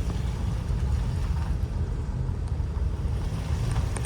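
Rainy outdoor ambience: a steady low rumble with a faint hiss of rain over it.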